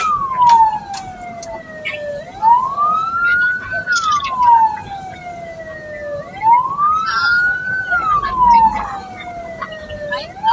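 Ambulance siren in a slow wail. Its pitch climbs for under two seconds, then falls for a little over two, about once every four seconds, with a few short clicks and knocks over it.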